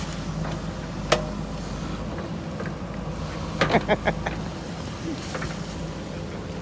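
JCB 3DX backhoe loader's diesel engine running steadily. A sharp knock comes about a second in, and a quick run of four or five knocks follows in the middle.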